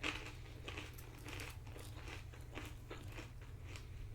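Close-up chewing of a mouthful of nachos: Tostitos tortilla chips crunching in short crisp bursts, about three a second, over a steady low hum.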